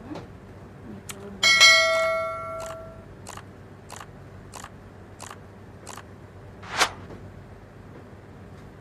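A metal object is struck once and rings briefly, fading over a second or so. It is followed by a run of light, evenly spaced ticks, about two a second, and one sharper click near the end.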